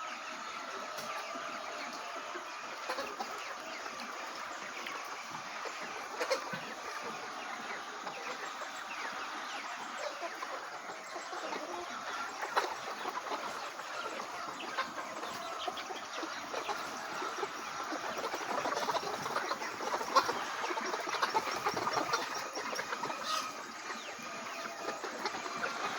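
A flock of young Lohmann Brown laying hens clucking and calling all together in a steady chatter, a little louder in the second half, with scattered small knocks.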